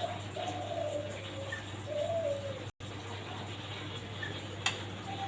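A bird calling in long, low, drawn-out notes, three of them in the first half, the last one rising and then falling; a steady low hum runs underneath.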